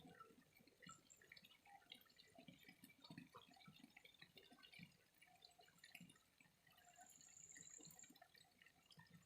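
Faint flowing water, heard as a steady scatter of small irregular drips and splashes.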